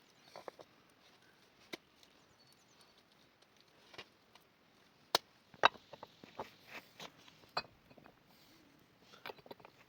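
Scattered sharp knocks and clicks of wood being worked by hand, irregular rather than a steady chopping rhythm, with the two loudest coming close together about five seconds in.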